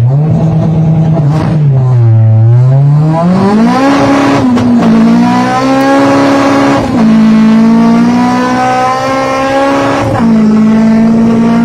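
Honda K20 inline-four in a Civic EK, heard from inside the cabin, revving hard under acceleration. The engine note sags and climbs back in the first few seconds, then drops sharply at upshifts about four and a half, seven and ten seconds in, pulling up again after each.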